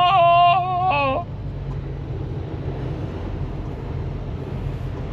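Steady low drone of a semi-truck's engine and road noise heard inside the cab. For about the first second a voice holds a wavering note, then stops.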